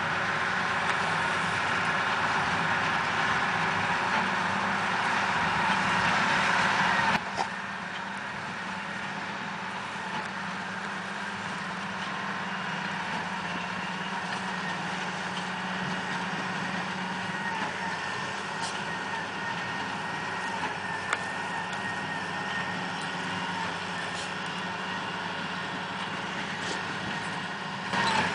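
IH 3388 2+2 tractor's diesel engine running steadily while pulling a New Holland BB960 big square baler through the field. About seven seconds in the sound cuts to a quieter, slightly different steady run.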